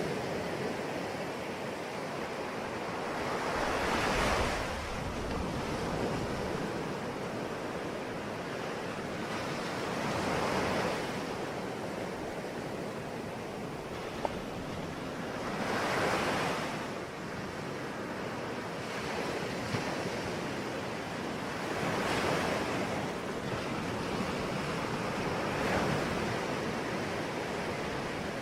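Sea waves breaking on a shore, each wave swelling and washing in about every six seconds over a steady rush of surf.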